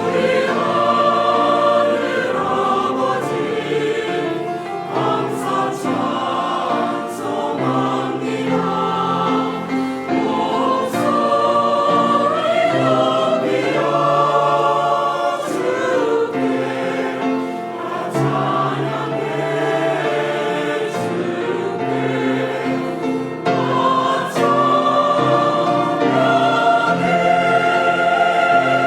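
Church choir singing a hymn, in sustained phrases over held low notes.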